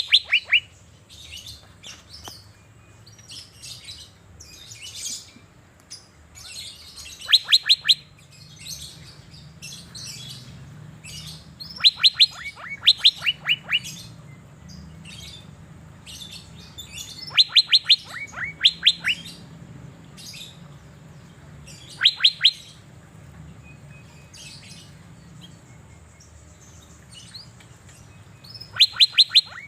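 Asian fairy-bluebird (cucak biru) in full song: loud bursts of several quick, sharp notes about every five seconds, with softer chirping between the bursts.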